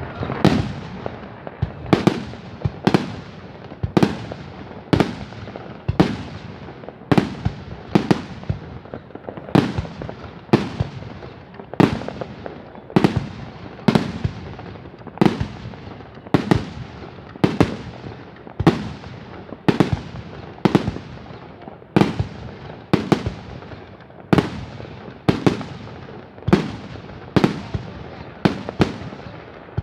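Aerial fireworks shells bursting in a steady barrage, roughly one and a half bangs a second, each trailing off in an echo.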